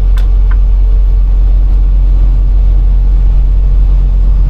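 Semi-truck engine rumbling steadily, heard from inside the cab while driving. The turn signal ticks about two to three times a second, then stops about half a second in.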